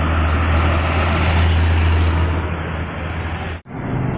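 A heavy truck passing close by: a deep, steady engine drone with tyre and road noise that swells and then eases off as it goes past. The sound cuts out for an instant near the end.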